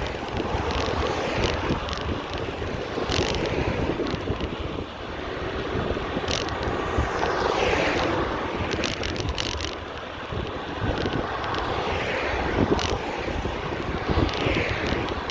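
Wind buffeting the microphone on a moving bicycle, with street traffic passing in falling whooshes about halfway through and again near the end, and scattered sharp clicks and rattles.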